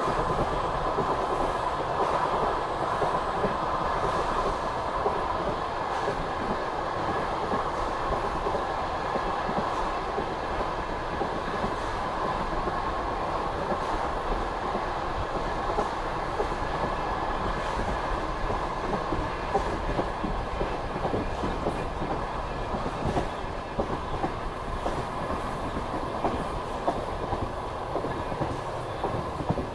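Passenger coach of a moving express train rolling along the track: steady wheel-and-rail rolling noise with the clickety-clack of wheels over the rails.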